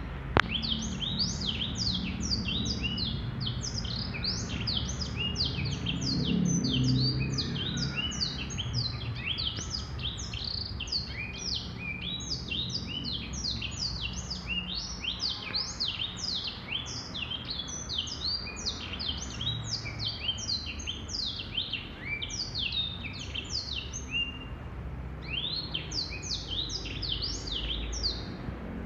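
Male blackthroat (black-throated canary) singing a long, fast run of high twittering notes, each a quick sweep in pitch. The song breaks off briefly about 24 seconds in, then resumes, over a low background rumble.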